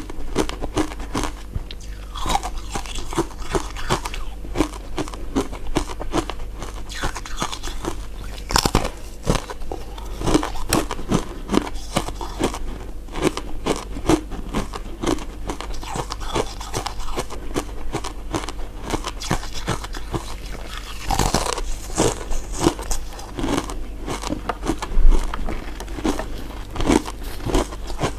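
Close-miked crunching and chewing of hard, brittle crystal ice dessert pieces: a dense, irregular run of crisp cracks and crackles as the pieces are bitten and chewed.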